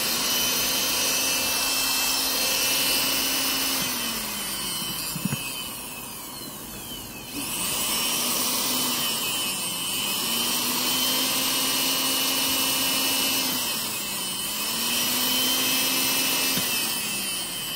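Small Bell-brand electric sewing-machine motor running free with a steady whine. It winds down and stops about five seconds in, starts again about two seconds later, and then slows and speeds up again three times.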